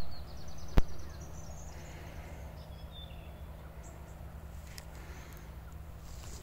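A bird singing a quick run of high notes that climb in pitch over the first two seconds, then a few short high chirps, over a steady low rumble. A single sharp click just under a second in.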